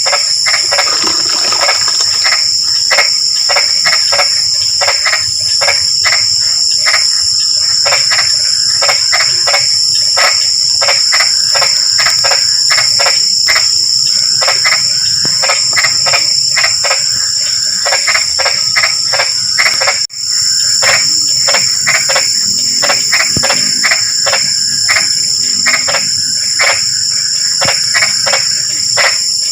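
Night chorus of many frogs giving rapid, repeated short croaking calls, over a steady high-pitched trill of insects. The sound cuts out for an instant about two-thirds of the way through.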